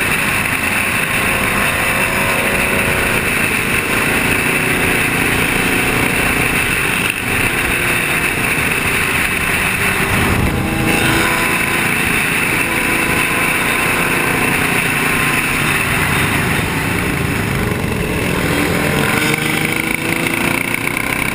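Motor vehicle running steadily, with engine and road noise throughout; the engine pitch shifts up and down near the end.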